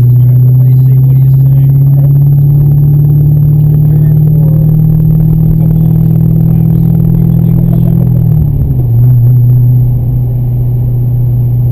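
Chevrolet Corvette C6 Z06's 7.0-litre LS7 V8, heard from inside the cabin, pulling hard at speed with its drone rising slowly in pitch. About eight seconds in, the pitch falls and settles lower.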